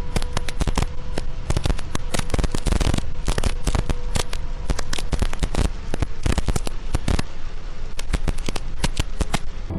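Heavy rain drumming on a moving car's windshield and roof, heard from inside the car as a dense, irregular crackle of drop impacts.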